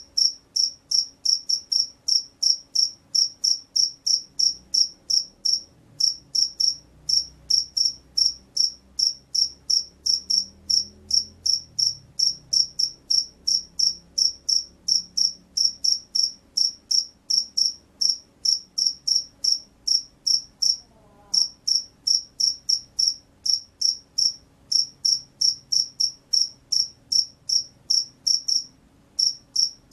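Field cricket singing, a steady run of short high chirps at about three a second, pausing briefly a few times.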